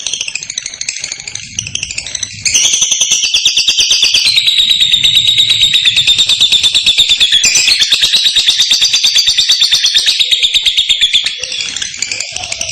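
Female lovebird's ngekek: a long, very rapid, high-pitched chattering trill. It gets louder about two and a half seconds in and runs on with hardly a break until near the end.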